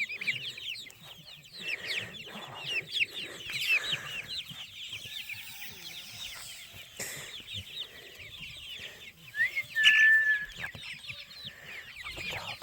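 A flock of chickens clucking and chirping continuously, many short overlapping calls, with one louder drawn-out call near the end that rises and then holds steady.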